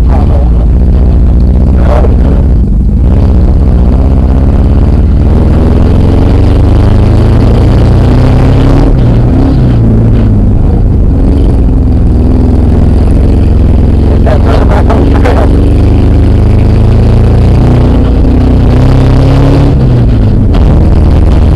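Car engine running loudly with the gas held down, its pitch rising and falling slowly as the revs swell and drop several times.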